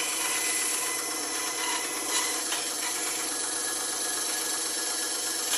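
Bandsaw running steadily, its blade cutting through wood with a steady rasping hiss and a few light knocks.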